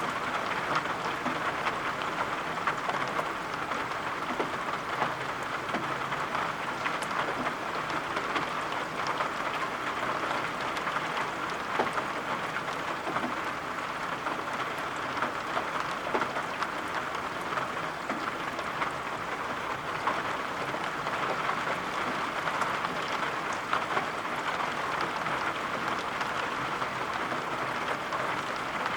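Steady rain with many small drops tapping, an even hiss that doesn't change.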